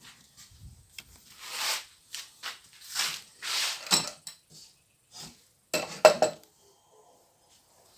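Metal objects being handled: irregular clinks, clatter and scraping, with the loudest cluster of clanks about six seconds in.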